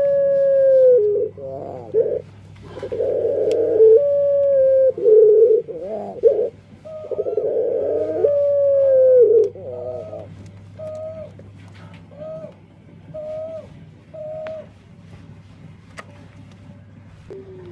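A male puter dove cooing: long drawn-out coos whose pitch glides and falls over the first half, then a run of about seven short clipped coos, roughly one every 0.7 s, that stops about fifteen seconds in. The owner finds the song unusual and wonders whether it is a defect.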